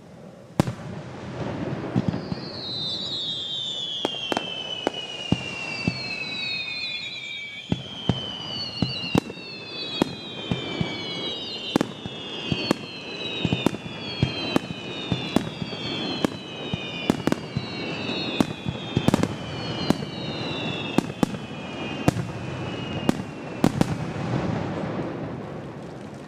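Fireworks display: a quick succession of sharp bangs from bursting shells, echoing off the surrounding mountains, with several long whistles falling in pitch overlapping one another.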